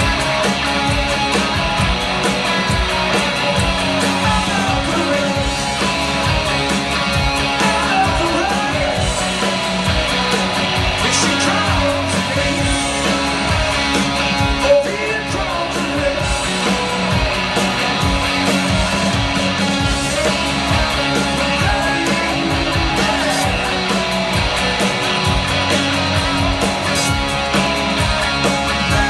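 Live rock band playing at full volume: electric guitars and drums, with singing over them.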